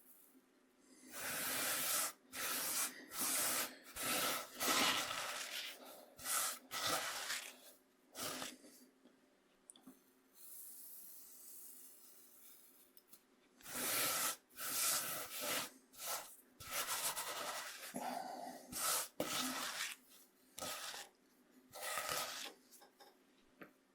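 Coarse corn meal scraped across a bamboo cutting board, a scratchy, gritty rasp in quick irregular strokes. It comes in two runs with a quieter pause between them.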